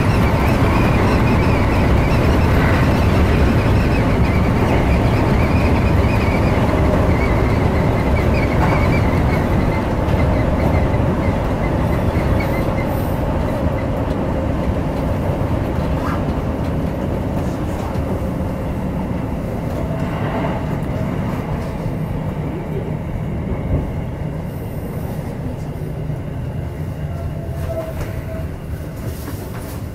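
Electric commuter train running on the Seibu Shinjuku Line, heard from the front of the car: a steady rumble of wheels on rails that gradually falls away as the train slows into a station, with a brief squeal near the end.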